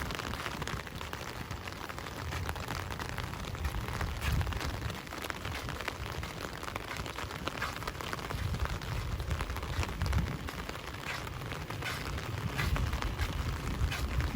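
Steady rain falling, a dense hiss of many small drop impacts, with an uneven low rumble underneath.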